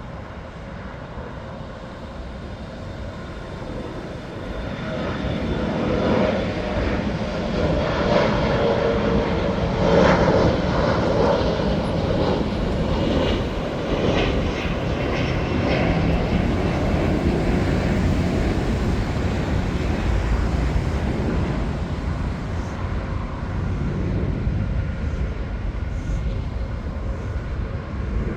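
Jet airliner engines growing louder over several seconds, loudest about ten seconds in, then holding a steady loud rumble.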